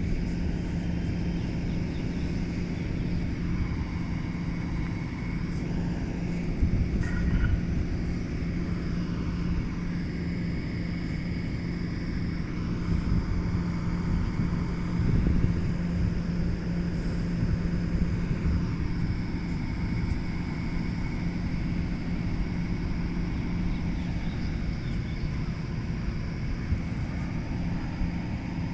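A motor vehicle running steadily: a constant engine hum over steady road and wind noise.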